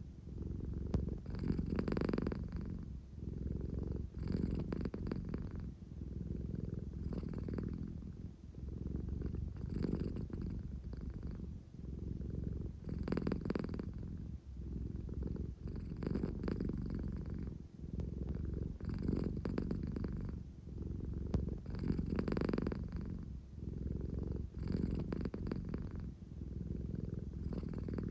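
American Shorthair cat purring continuously, a low rumble that swells and eases with each breath, about every three seconds.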